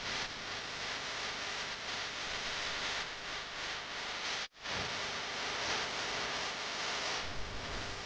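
Steady rushing wind noise on the microphone of a moving motorcycle, with no clear engine note, cutting out for a moment about halfway through.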